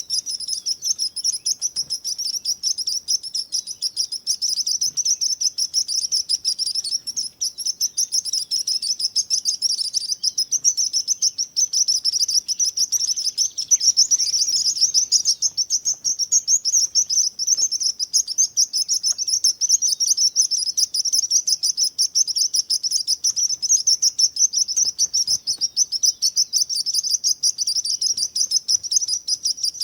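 Small birds chirping non-stop in a dense, high-pitched chorus of rapid twittering notes.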